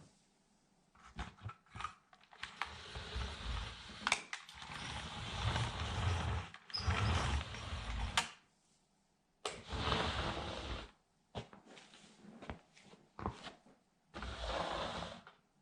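A sandal sole scraping and pressing on a toy truck against the floor: rough scraping and rustling in several bouts of a second or more, with sharp clicks and cracks between them.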